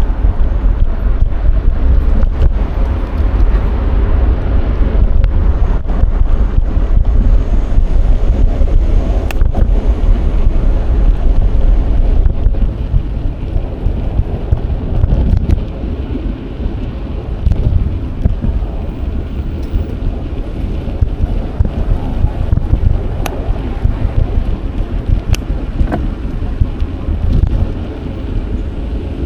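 Wind buffeting the action camera's microphone while riding a bicycle: a loud, continuous low rumble with a few faint ticks, easing somewhat about halfway through.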